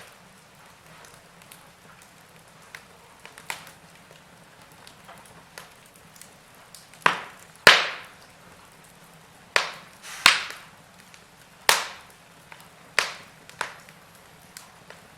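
Wood fire crackling in a fireplace: sharp, irregular pops from burning logs over a low steady hiss, with a run of louder pops in the second half.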